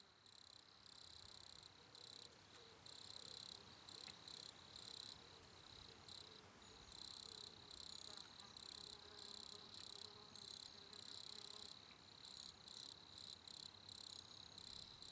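Faint chorus of chirping insects, a steady high buzz that pulses on and off, fading in over the first couple of seconds.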